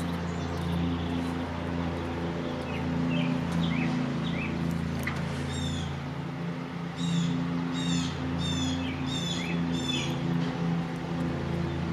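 Birds chirping, with a run of about five quick descending high notes in the second half, over a steady low hum.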